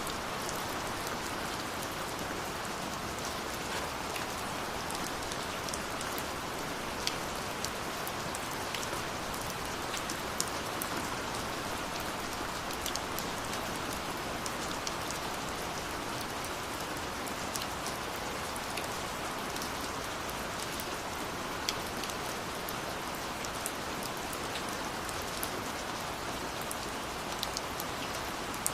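Steady rush of a waterfall with sparse crackles and pops from a wood fire scattered through it.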